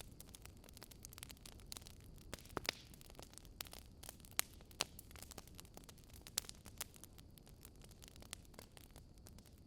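Wood fire crackling: irregular sharp pops and snaps from burning logs over a low steady hiss, with a few louder pops scattered through.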